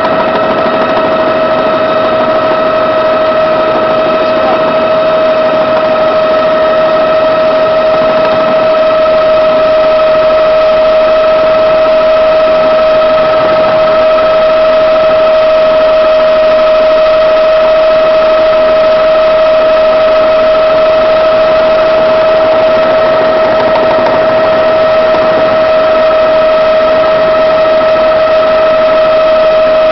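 Helicopter in flight: a loud, steady engine and rotor drone with a constant high whine that holds one pitch throughout.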